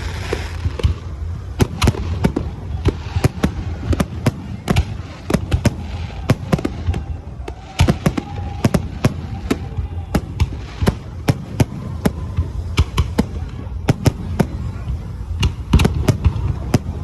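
Fireworks display: a rapid, irregular run of sharp bangs and crackles, several a second, over a continuous low rumble of distant bursts.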